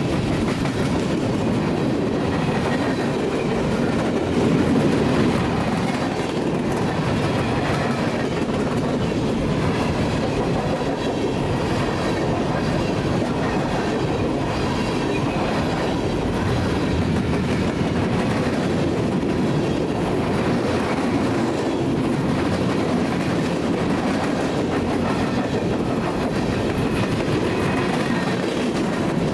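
Freight train of open-top hopper cars rolling past at trackside: a steady rumble of steel wheels on rail with clicking as the wheels pass over rail joints.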